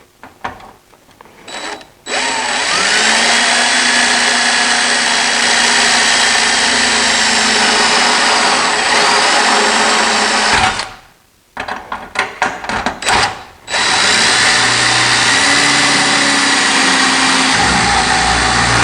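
Power drill boring through the thin inner and outer sheet metal of an LED light fixture: one run of about eight seconds that starts with a rising whine, a few short clatters, then a second run of about five seconds.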